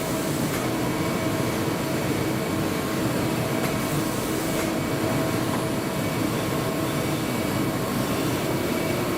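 Makino L2 vertical machining center running steadily while milling gray cast iron: a constant machine noise with a few steady spindle tones and a short rise in hiss about four seconds in.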